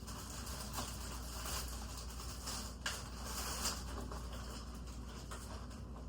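Soft rustling and handling noise with a couple of small clicks a little past the middle.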